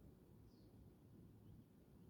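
Near silence: faint low background rumble, with a faint short high chirp about half a second in.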